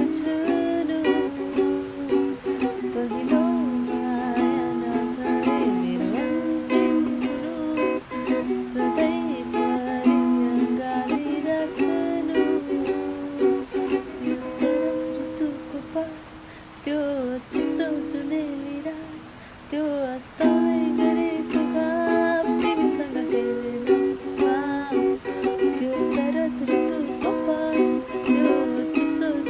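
A woman singing to a strummed acoustic string instrument, in a small room. The music drops quieter for a few seconds about two-thirds of the way in.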